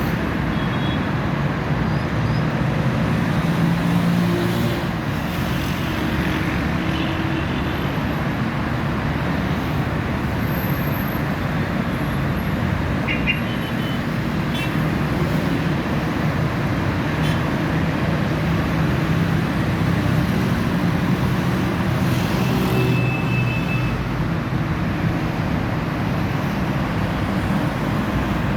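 Steady road traffic noise, a constant rumble and hiss of passing vehicles, with a few brief high squeaks about 13 and 23 seconds in.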